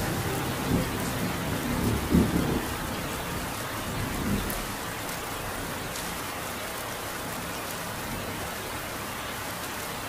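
Steady heavy rain from a thunderstorm, with low rolls of thunder in the first few seconds that die away, leaving an even rain hiss.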